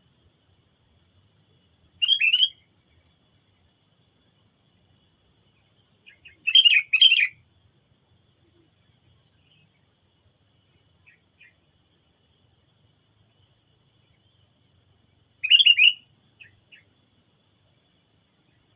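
Sooty-headed bulbul calling: three short bursts of quick chirping notes spaced several seconds apart, with a few faint single notes between them.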